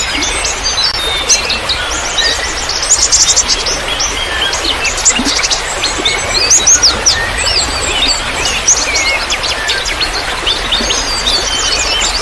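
Many small songbirds chirping and twittering rapidly and continuously, with quick rising and falling notes, over the steady hiss of trickling water.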